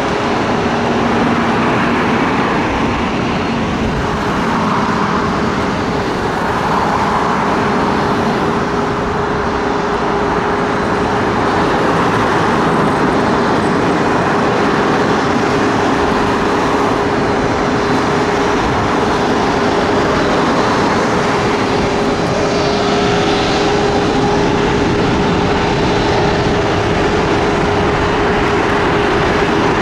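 Steady, loud engine roar with a constant droning tone running through it.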